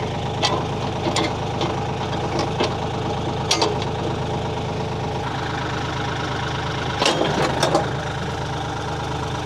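Kioti compact tractor's diesel engine running steadily, with scattered sharp clanks and knocks. The engine note shifts slightly about halfway through, and the knocks cluster near the end.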